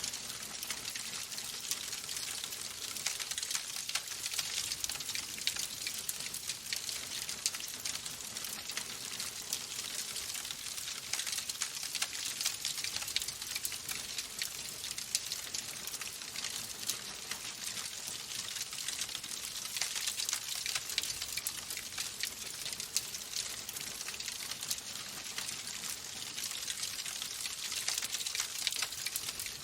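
Fireplace wood fire crackling steadily: a dense run of small, quick pops over a hiss.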